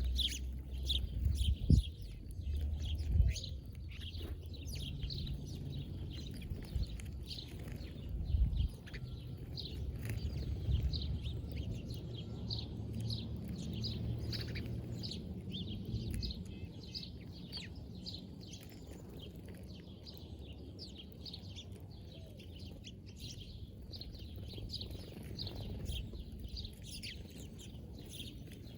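Small birds chirping continuously, many short quick calls overlapping as from a flock. A low rumble runs under the first half, and a few sharp knocks come near the start and again at about eight seconds.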